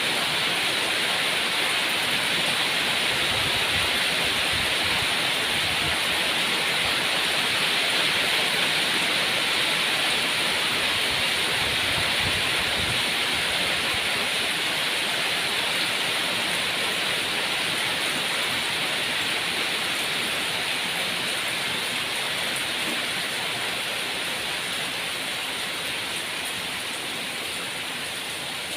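Steady rain falling, an even hiss of heavy rainfall that eases slightly near the end.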